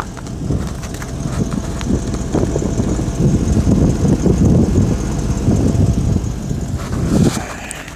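Car running, heard as a low rumble with wind on the microphone; the rumble builds through the middle and drops away about seven seconds in.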